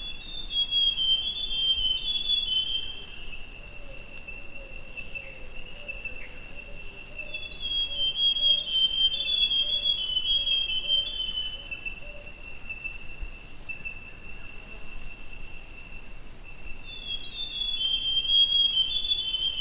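Forest scrub-robin (buff-brown scrub-robin) singing: three phrases of quick notes cascading downward, each about three seconds long, with long pauses between. A steady high insect drone runs underneath.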